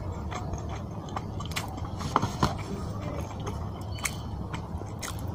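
A man chewing a mouthful of rice and spicy fish curry, with scattered mouth clicks over a low steady hum. Two sharper clicks just past two seconds in are the loudest.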